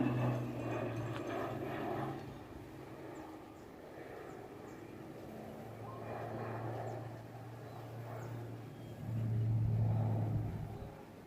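Jet aircraft engine noise fading away after a pass overhead, over a low steady hum. It swells again about nine seconds in, then dies down near the end.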